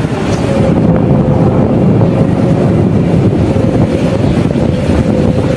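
Strong wind buffeting the microphone in a loud, low rumble. A thin steady tone runs through it.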